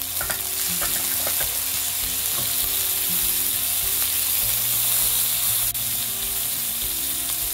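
Onions and freshly added king prawns sizzling in hot oil in a frying pan, stirred and turned with a spatula.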